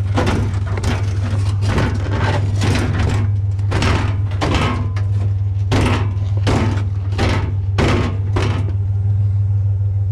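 A vehicle engine idling with a steady low hum, under a run of irregular knocks and scrapes, about two a second, of a heavy sheet-metal appliance being shifted and loaded. The knocking stops near the end.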